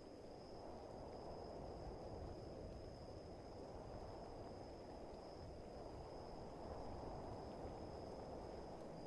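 Faint, steady night ambience of rain and wind, a low rushing hiss, with crickets trilling continuously at one high pitch over it.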